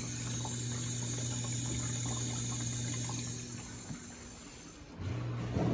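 Amana dishwasher filling: water rushing in with a steady hiss and a low hum, which fades away about four seconds in and comes back near the end.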